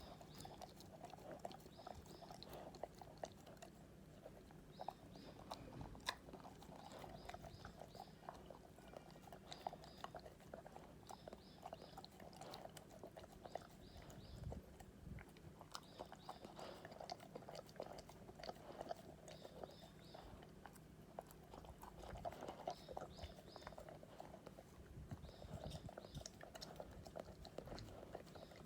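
Akita dog eating steadily, faint chewing with a run of small clicks and crunches as it works through its food.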